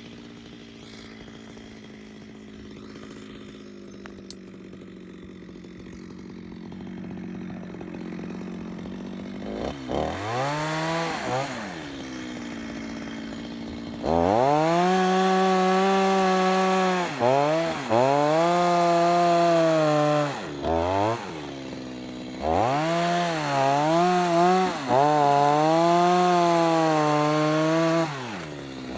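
Chainsaw running quietly at first, then revved hard from about ten seconds in and cutting into a log in repeated long bursts. Its pitch sags under load and picks up again, with short drops back toward idle between cuts.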